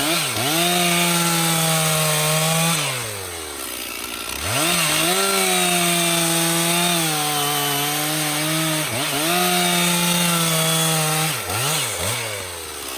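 Stihl MS 460 chainsaw with a 25-inch bar and carbide chain, cutting through a hickory log at full throttle. It drops back to idle about three seconds in and revs up again to resume cutting. Near the end it dips and revs once more before falling back to idle.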